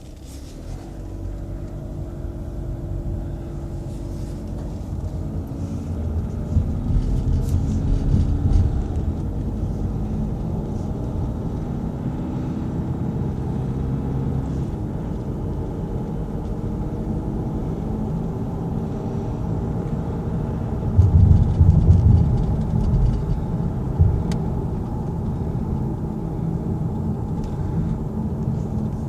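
2014 Volkswagen Passat TDI's four-cylinder turbodiesel running during warm-up: a low rumble with an engine tone that slowly rises and falls, swelling louder about seven seconds in and again about twenty-one seconds in.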